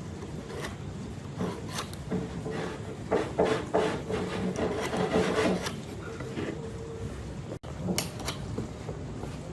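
Wood being worked by hand: irregular rubbing and scraping strokes against a wooden surface, busiest in the middle, with a brief dropout about three quarters of the way through.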